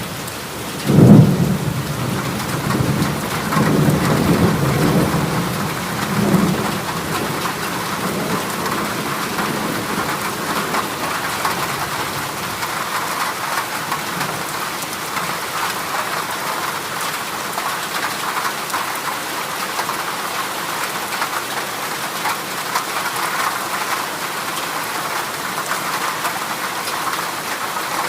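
Heavy rain drumming steadily on a corrugated zinc (galvanized iron) roof. A loud clap of thunder about a second in, followed by rolling rumbles over the next few seconds.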